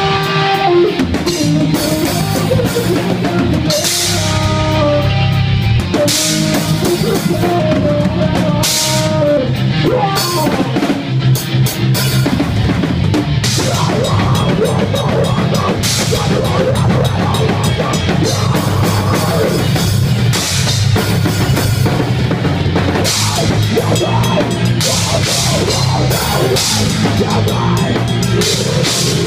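Rock band playing a song live, with the drum kit beating steadily under sustained melodic instrument lines.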